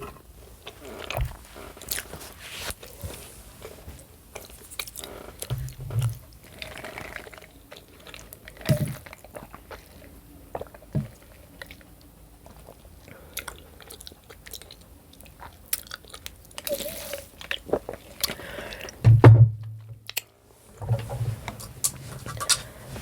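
Close-miked eating sounds: chewing and biting with scattered small clicks and knocks, and a heavier low thud about 19 seconds in.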